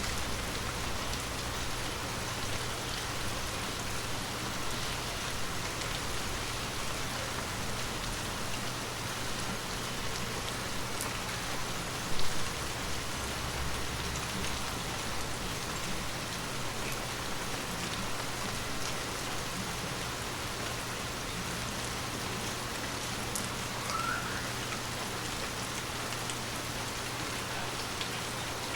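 Water drops tapping on glass in a steady rain-like patter, with scattered faint ticks. About twelve seconds in there is one brief dull low thump, the loudest moment.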